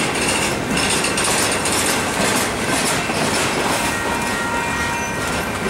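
Union Pacific double-stack intermodal train rolling past, its loaded container well cars rumbling and rattling steadily on the rails.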